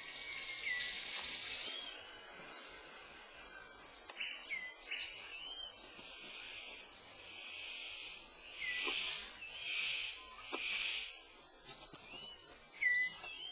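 Tropical rainforest ambience: a steady insect hiss with many short, rising whistled bird calls, and three louder hissing bursts about nine to eleven seconds in.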